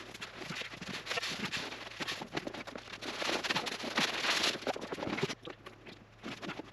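Irregular crunching and scraping of packed snow being dug and brushed away by hand, dying down to a few faint crunches about five seconds in.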